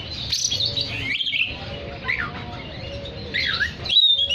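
Oriental magpie-robin singing: a varied run of clear whistled notes and quick falling and rising glides, ending in a held high whistle.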